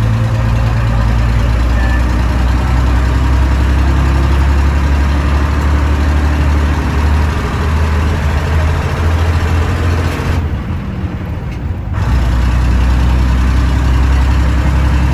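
Diesel engine of a preserved Leyland Leopard bus running steadily under way, with a low, even engine note. It drops back briefly about ten seconds in, then picks up again.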